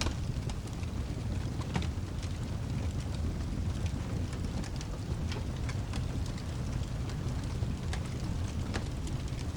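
Fireplace crackling, with irregular sharp pops a few times a second over a steady low rumble of rain.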